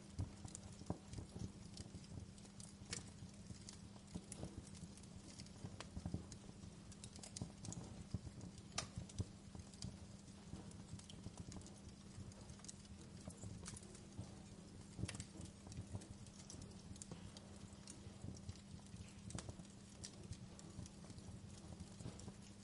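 Wood fire crackling in a fireplace, with irregular sharp pops over a low steady hum.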